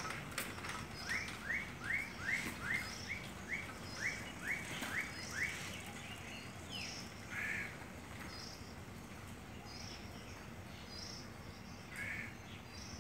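Bird calling: a run of about ten short, even notes, roughly two and a half a second, over the first half, then two single calls later. Higher chirps from other birds throughout.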